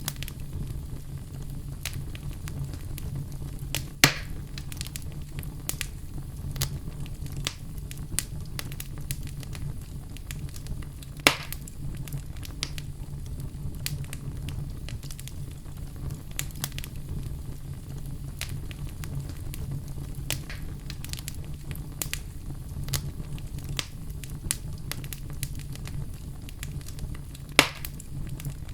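Wood fire burning in a fireplace: a steady low rumble of flame with frequent small crackles and three louder pops.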